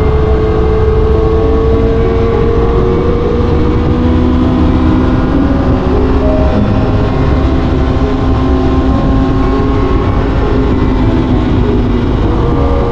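Aprilia RS 660's parallel-twin engine running at a steady cruise, its pitch rising slightly over the first few seconds and then holding, under heavy wind rush on the microphone.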